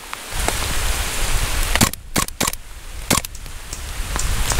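Heavy rain downpour setting in sharply, with wind buffeting the microphone, and several sharp cracks scattered through it.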